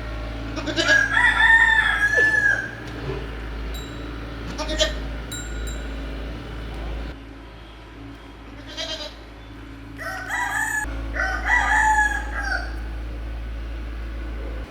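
A rooster crowing twice, about a second in and again about ten seconds in, with a few short calls between the crows.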